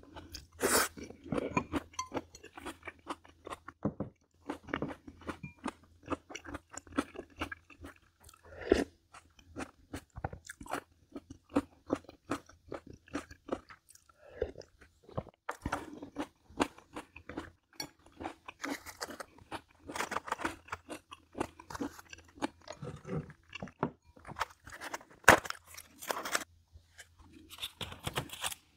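Close-miked mouth sounds of eating: chewing with many crisp crunches and bites, a few of them louder, over a faint steady low hum.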